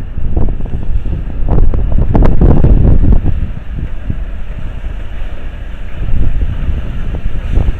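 Wind buffeting the microphone, a loud irregular rumble that is strongest about two seconds in.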